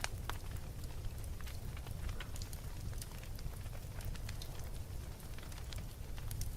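Fire burning in a fireplace, crackling with frequent small sharp pops over a steady low rumble.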